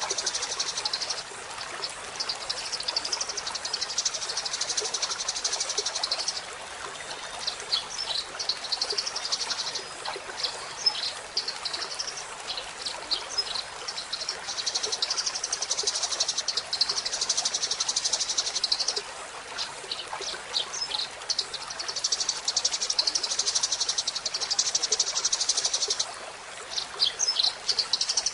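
Eurasian tree sparrows chattering: long runs of fast, high chirping trills, broken twice by short pauses of single sharp chirps, over a faint steady hiss.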